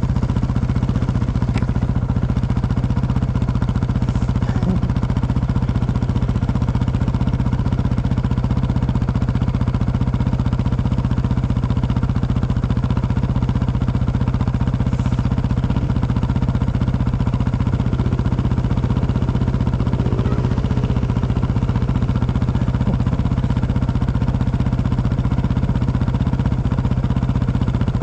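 Engine of an off-road motorbike or quad bike running steadily at an even pitch, without revving up or down.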